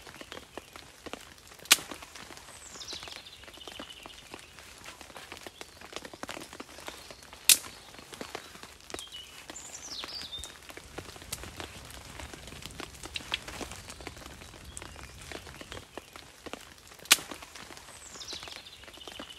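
Quiet outdoor ambience of faint scattered ticks, broken three times by a loud sharp click. About a second after each click comes a thin, high bird call that slides down in pitch.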